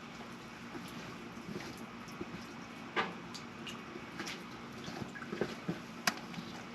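Faint, irregular clicks and small taps of hand tools and parts being handled during a spark plug change, with two sharper ticks about three and six seconds in.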